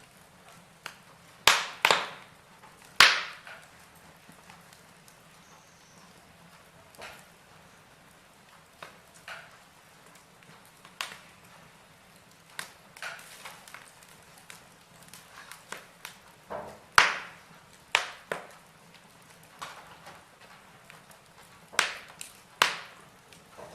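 Logs burning in a fireplace, crackling with sharp, irregular pops and snaps, a few of them loud, over a faint steady hiss.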